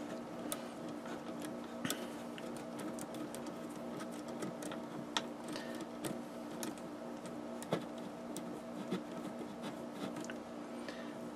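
Scattered light clicks and taps of power cable ends and small metal parts being handled and fitted to a terminal, over a steady low hum.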